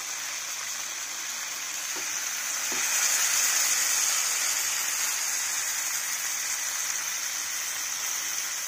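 Marinated chicken tikka on wooden skewers sizzling in melted butter in a kadai over a medium flame: a steady frying hiss that grows a little louder about three seconds in.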